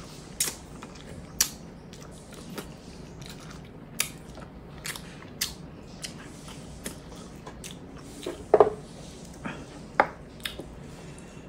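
Close-up eating sounds of a person chewing pork hock and rice by hand: wet chewing with a string of sharp lip smacks and clicks every half second or so. A louder cluster of smacks comes about eight and a half seconds in.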